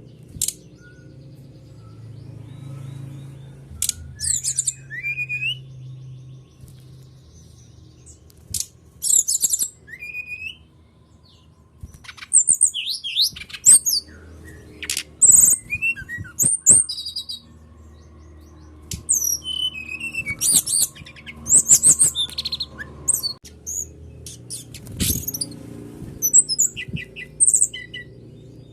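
Songbird singing in irregular bursts of high chirps, whistles and rapid trills, with short pauses between phrases, over a faint low steady hum. It is a birdsong lure recording of the kind played to prompt caged birds to sing.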